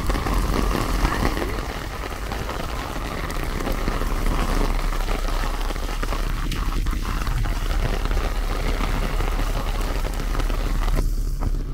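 Heavy rain falling on a paved street and pavement, a steady hiss of water.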